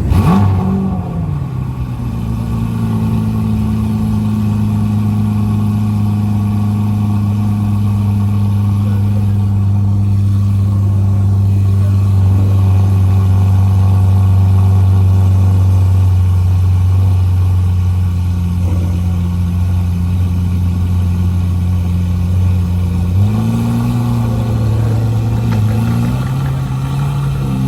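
Car engine settling from a rev down to a steady idle, then a small rise in revs that wavers near the end.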